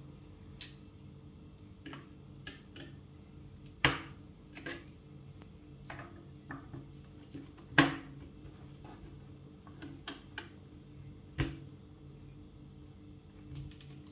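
Irregular clicks and knocks of hard plastic IBM Model M keyboard parts being handled, with three louder knocks about four seconds apart among lighter ticks.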